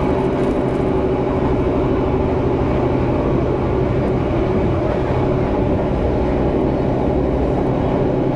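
Loud, steady running noise of a passenger train, heard from inside the carriage: an even rumble with a low steady hum that does not change.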